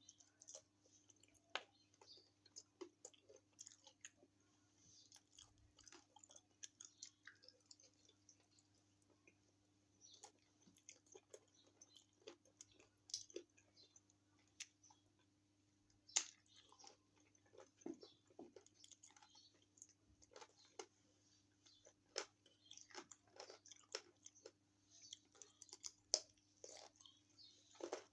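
Close-up chewing and biting of chicken feet: many short, irregular crunches and clicks, one bite after another. A faint steady hum sits underneath.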